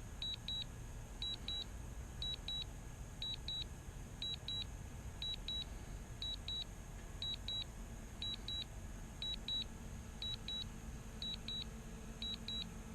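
Drone remote controller's low-battery alarm: high double beeps repeating about once a second, warning that the aircraft battery is low. A low steady rumble runs underneath.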